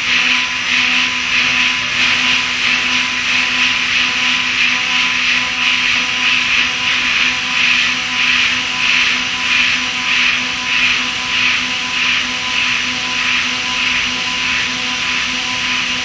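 CNC mill spindle at 15,000 rpm driving a half-inch five-flute solid carbide chip-splitter endmill (Iscar EFPI), high-efficiency milling P20 tool steel: a steady spindle tone under a hissing cutting noise that swells and fades rhythmically, a bit more than once a second, as the tool sweeps in and out of the cut.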